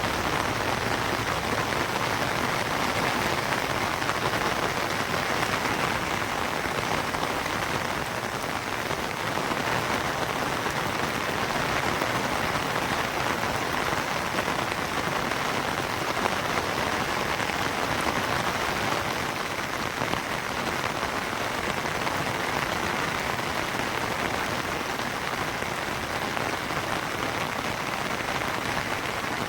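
Steady rain falling, an even hiss of drops on surfaces without let-up.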